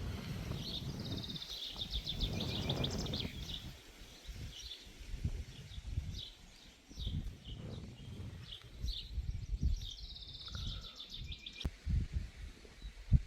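Small birds chirping, with two rapid high trills, one starting about a second in and another just after ten seconds, over an uneven low rumble. No siren is sounding.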